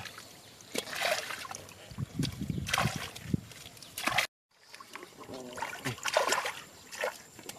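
Shallow water splashing and trickling, with sharp splashes here and there. The sound cuts out completely for a moment a little past the middle.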